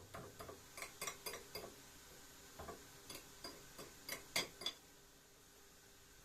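Dishes and cutlery clinking and clattering: a quick series of sharp clinks and knocks, some ringing briefly, that stop about three-quarters of the way through.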